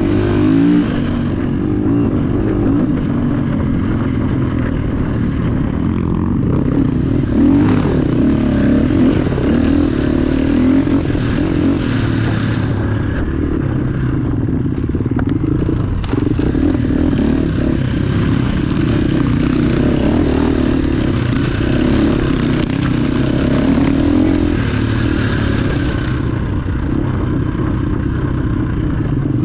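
Dirt bike engine running continuously while riding a trail, with stretches of harsher high-pitched noise coming and going.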